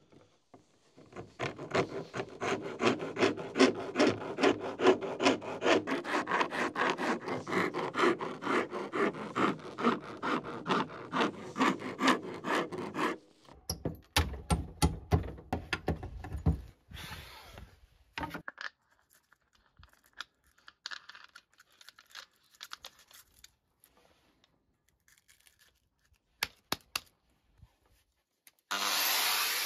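Hand rasp filing the handle of a plane-tree wood oven peel in quick back-and-forth strokes, about two a second, which stop suddenly about halfway through. After that come a few scattered knocks, and a steady hiss starts near the end.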